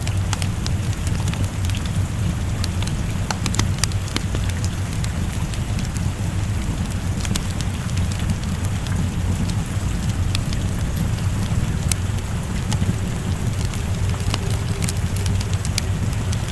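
Steady rain with a continuous low rumble underneath, and scattered sharp crackles and pops from a wood fire in a fireplace.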